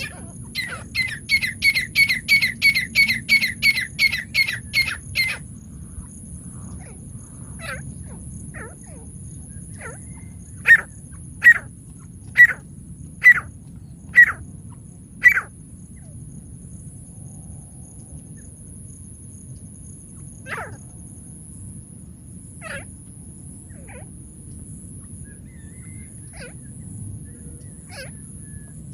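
Francolin (teetar) calling: a fast run of about fifteen ringing notes, three a second, that cuts off suddenly, then six loud sharp notes about a second apart and a few scattered fainter calls. It is a lure call used to draw wild francolins in.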